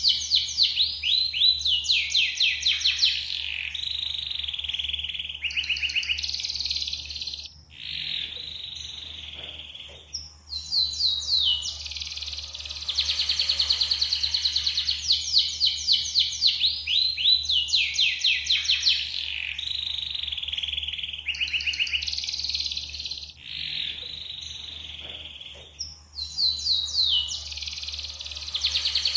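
Yellow domestic canary singing a long, continuous song of rapid trills and rolled phrases. The song breaks off briefly about a quarter of the way in and again past three-quarters.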